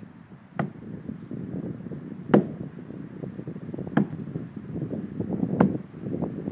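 Four heavy blows into tree wood, evenly spaced about one and a half seconds apart, with a rustling, windy background between them.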